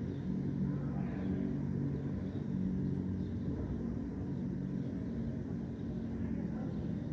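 Steady low rumble of city traffic, with faint bird chirps above it.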